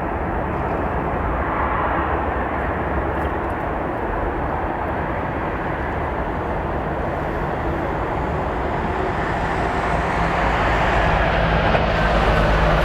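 Jet airliner engines at takeoff power during the takeoff roll, a steady roar that slowly grows louder, with a low hum coming in near the end.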